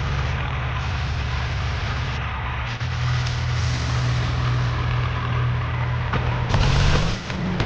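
Tractor's diesel engine running steadily, getting louder and revving higher near the end.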